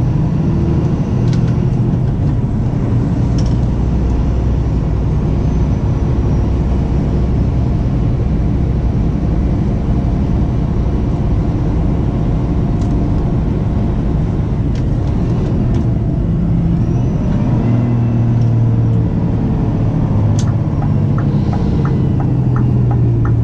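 2013 Scania P360 truck's five-cylinder diesel running steadily while driving, with a deep rumble. About three quarters of the way in the engine note rises. Near the end a regular ticking starts.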